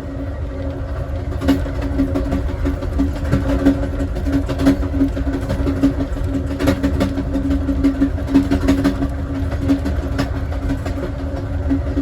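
Southwest Chief passenger car rolling along the track, heard from inside the car: a steady low rumble of wheels on rail with a constant hum and scattered sharp clicks and knocks.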